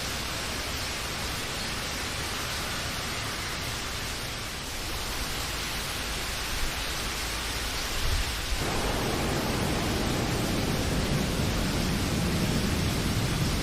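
Steady rain, an even hiss. About eight and a half seconds in a deeper, fuller rushing comes in abruptly and the rain grows a little louder.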